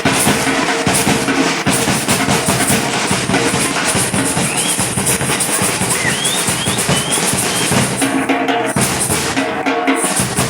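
Batucada samba percussion ensemble playing a fast, dense drum groove, with a few short high rising chirps over it in the middle.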